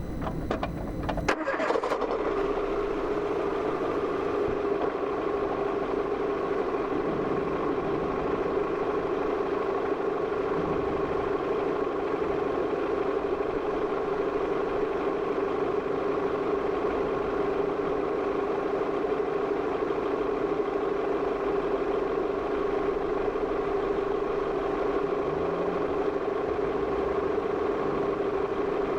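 Car engine starting about a second in, then idling with a steady hum.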